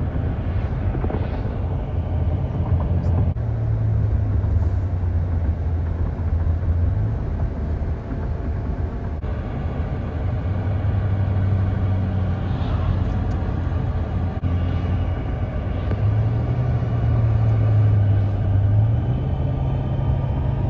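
Road vehicle running at highway speed: a steady low engine drone over road noise, its pitch stepping up and down a few times.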